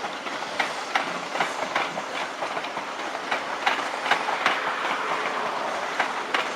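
Wheels of a Class 365 electric multiple unit clicking over rail joints and points as the train moves past, a run of sharp, unevenly spaced clicks over a steady rolling noise.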